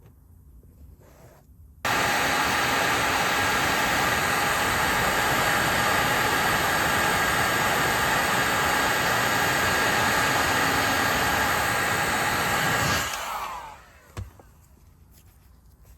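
A handheld hot-air dryer (heat gun or hair dryer) switches on about two seconds in and blows steadily with a faint whine. About eleven seconds later it is switched off and winds down with a falling pitch. It is used to dry the leather filler between coats. A short knock follows soon after.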